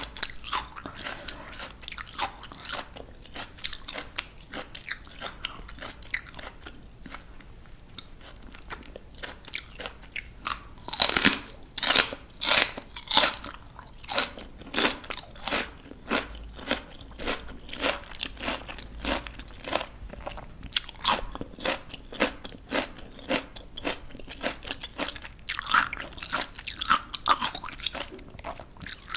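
Close-miked crunching of crisp raw vegetables being bitten and chewed: quick runs of sharp cracks, loudest in a burst of big bites about 11 to 13 seconds in.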